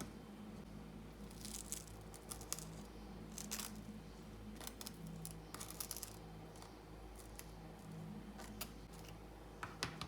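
Irregular small crinkling, tearing-like handling sounds in short clusters, over a low steady hum.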